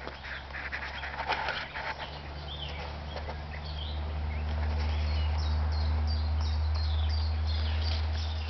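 Woodland birdsong: a bird repeating short, high chirps about three a second through the second half, over a steady low rumble, with a brief rustling about a second in.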